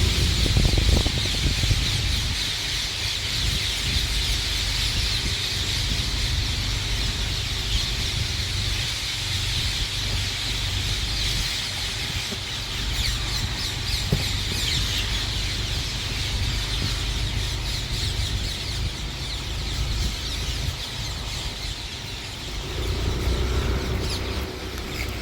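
A large flock of ring-necked parakeets screeching together in a dense, unbroken chorus of overlapping shrill calls, with a low rumble underneath.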